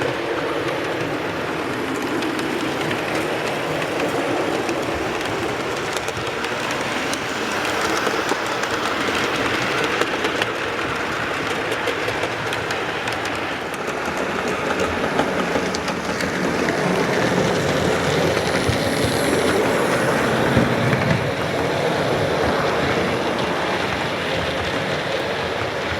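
Model railway train running along the layout's track: a steady rumble of wheels and motor with fine clicking over the rail joints, a little louder about two-thirds of the way through.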